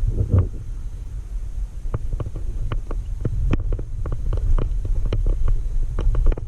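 A steady low rumble with many irregular sharp clicks and knocks scattered through it.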